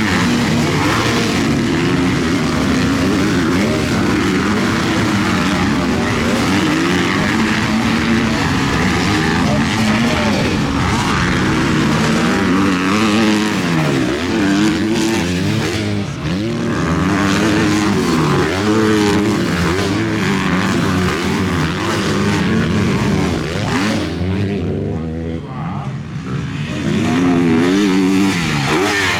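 Several MX2 motocross bikes racing, their engines revving up and down through the gears as they pass.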